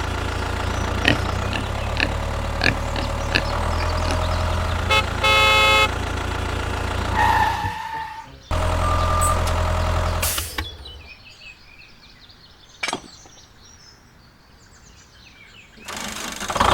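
A vehicle engine running with a steady low hum and a horn honking once for about a second partway through. The engine sound cuts out briefly, returns, then falls mostly quiet for several seconds apart from a single sharp click, before starting up again near the end.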